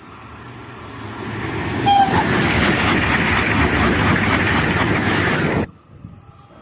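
A high-speed train passing at speed: a rushing noise builds over about two seconds, stays loud for about three more, then cuts off suddenly. A short tone sounds as the noise reaches full strength.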